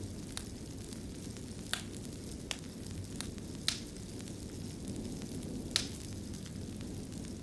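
Wood fire burning in a stone fireplace: a steady low rumble of flames with a handful of sharp crackles and pops, the loudest about two-thirds of the way through.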